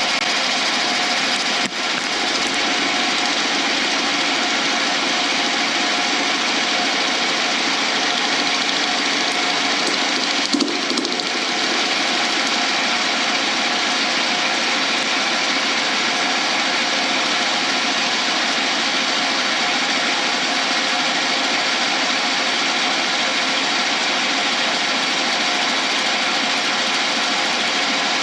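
Lathe running steadily while a tool cuts down a cast blank still encased in 2-inch PVC pipe, a rough, even machining noise with a brief louder rattle about ten seconds in.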